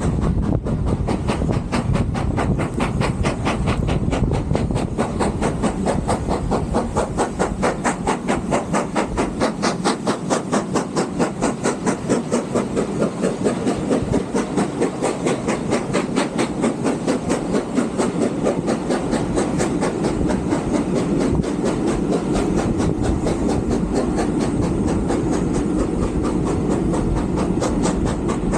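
A steam train running at speed: a fast, even rhythmic beat over a steady hiss and rumble. The beat is sharpest in the middle stretch.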